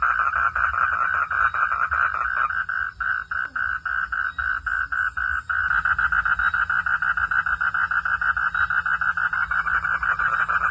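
Chorus of frogs calling in a continuous, rapidly pulsing trill. About two and a half seconds in, the chorus thins to separate, distinct pulses for about three seconds, then fills back in, with a low rumble underneath.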